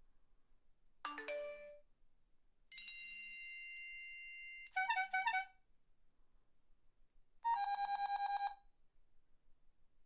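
A series of short electronic phone alert and ring tones. About a second in comes a quick falling run of notes. A held tone of about two seconds follows and breaks into a rapid pulsing trill, and a second short trill rings near the end.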